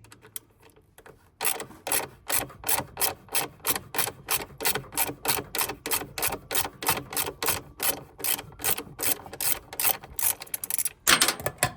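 Steady, rapid hammer blows driving a new drum bearing down into its seat in a washing machine tub, about three strikes a second, with a quick flurry of harder blows near the end.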